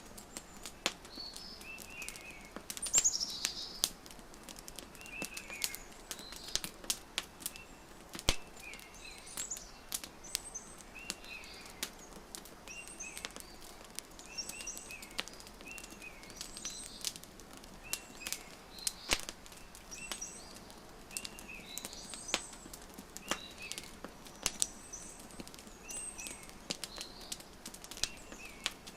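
Wood fire crackling, with irregular sharp pops and snaps, under small birds chirping: short chirp phrases repeated every second or two.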